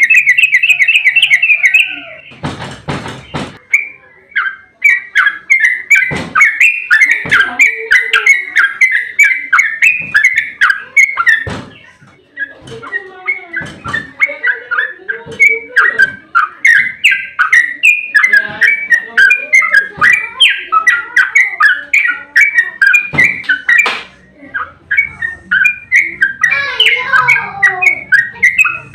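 Yellow-vented bulbul (trucukan) singing a long, rapid, nearly unbroken run of bubbly chirping notes, the continuous 'ropel' song used to lure other bulbuls into answering. A brief rustling noise cuts in about three seconds in.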